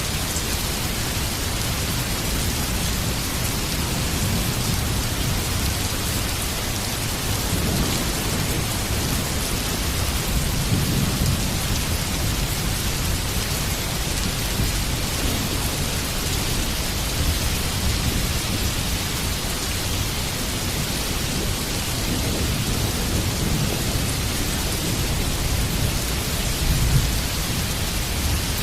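Heavy rain falling steadily, with low thunder rumbling under it. The rumble swells several times, most strongly in the middle and again just before the end.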